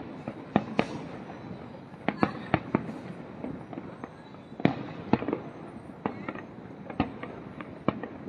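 Aerial fireworks exploding in an irregular series of sharp bangs, a dozen or so, some in quick pairs, over a steady background haze.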